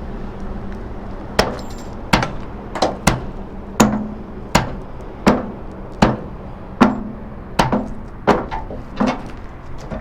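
Hammer driving a nail into a wooden block on a flatbed trailer: about a dozen sharp, evenly paced blows, roughly one every 0.7 s, starting about a second and a half in and stopping near the end.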